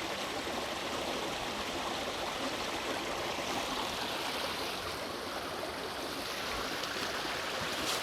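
Creek water cascading down a small rocky waterfall, a steady rushing splash.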